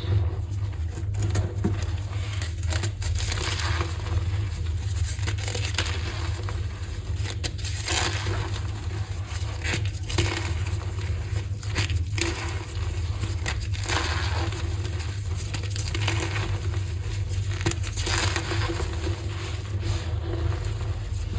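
Green gym chalk being crushed, a continuous run of crunches and crumbles, over a steady low hum.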